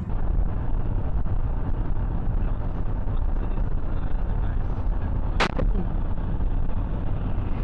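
Steady low rumble of vehicle and road noise, with one sharp bang a little past five seconds in.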